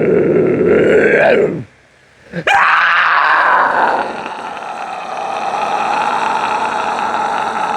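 A man's loud, drawn-out imitation animal calls, howling bellows of the kind used as sasquatch calls. One call drops in pitch and stops about a second and a half in. Another starts a second later with a sharp upward sweep and is held long and steady.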